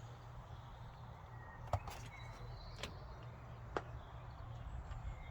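A few light clicks and knocks, about four spread over two seconds, from parts and tools being handled, over a steady low hum.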